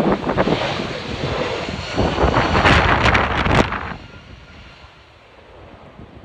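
Jet airliner engines rumbling and roaring overhead, mixed with strong gusts of wind buffeting the microphone. The noise is loudest in the first four seconds, then drops away.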